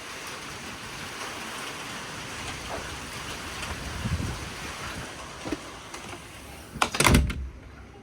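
Steady rush of wind and rain, then a door banging shut about seven seconds in, after which the storm noise is suddenly muffled.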